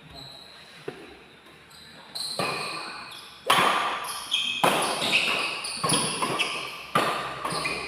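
Badminton rally in an indoor hall: racket strokes on the shuttlecock about once a second from about halfway in, each echoing and dying away, with squeaks of court shoes.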